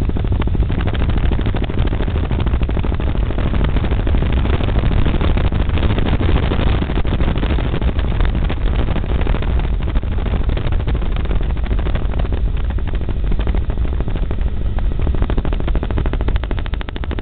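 Helicopter in flight heard from on board: steady engine and rotor noise with a fast, even rotor chop over a heavy low rumble.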